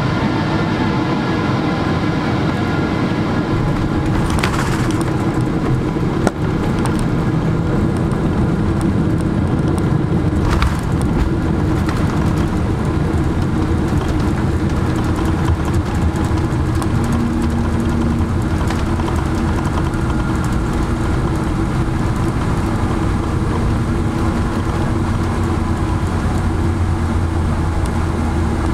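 Cabin noise inside a Boeing 777-300 airliner: a steady, loud rumble of engines and airframe, broken by a few sharp rattles and a knock about six seconds in.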